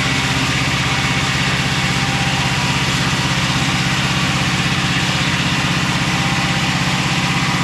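Mobile Dimension circular sawmill's engine running steadily at an even pitch.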